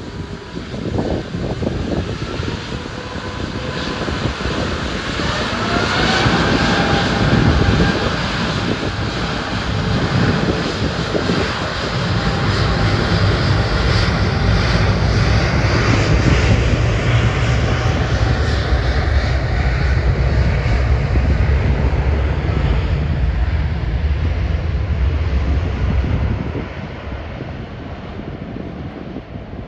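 Airliner's engines: a whine rising in pitch about six seconds in, then a loud low rumble from about twelve seconds that drops away near the end.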